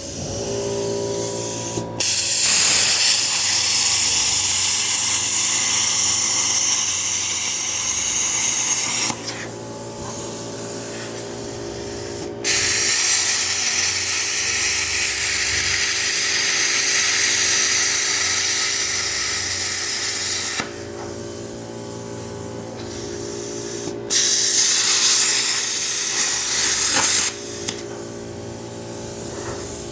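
Plasma cutter torch hissing in three long bursts that start and stop sharply, with the machine's steady hum in between.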